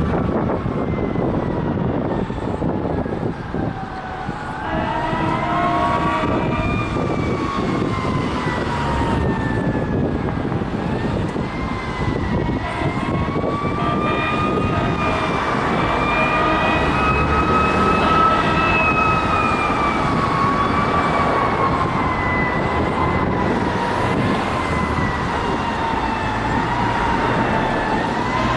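Fire engine siren wailing in slow rising and falling sweeps as the 2012 KME engine responds, over the rumble of its engine and road noise.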